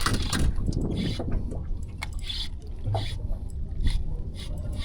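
Water splashing and dripping around a small fishing boat, in irregular little bursts with a few clicks, over a constant low rumble.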